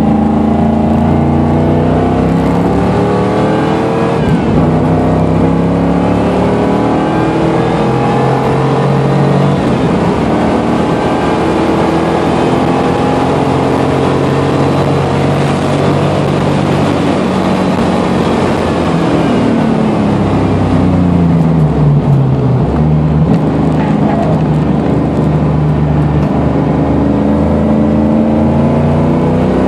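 1989 Pontiac Firebird Trans Am engine heard from inside the cabin at track speed. It revs up with a gear change about four seconds in, holds a fairly steady pitch down a straight, drops in pitch as the car slows around twenty seconds in, then climbs again.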